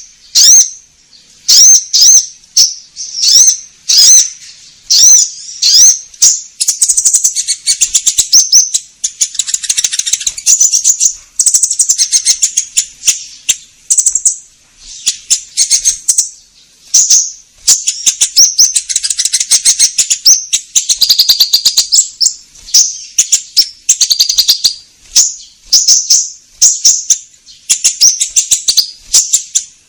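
Konin songbird singing continuously: sharp, high, upward-swept chirps about two a second, breaking into long, fast chattering trills twice.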